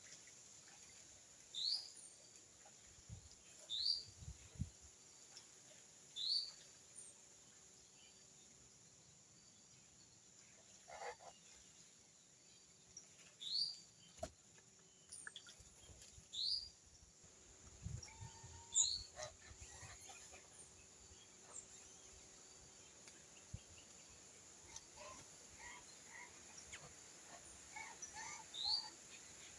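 Small birds calling: one short, rising chirp repeated every two seconds or so, with a few lower, quicker chirps from other birds near the end. Some faint low thuds come in between.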